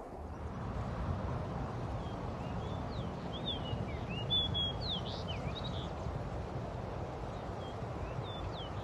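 Wild birds chirping: a cluster of quick rising and falling calls a few seconds in and a few more near the end, over a steady low outdoor rumble.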